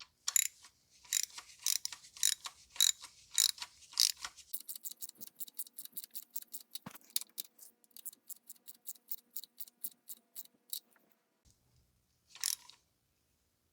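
Hand ratchet clicking while tightening a bolt by hand: a few seconds of louder clicks about two a second, then a quieter, quicker run of about four clicks a second, and one last click near the end.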